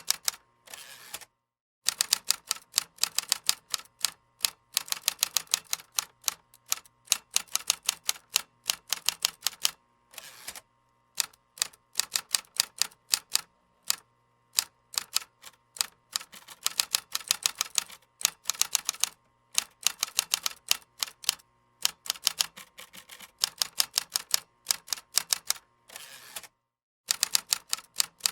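Computer keyboard typing: rapid runs of key clicks, broken by a few brief pauses.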